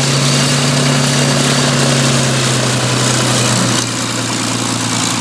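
Rolls-Royce Merlin V12 piston engine of a Second World War fighter running steadily at low power, with a steady deep pitch. It drops slightly in level about four seconds in.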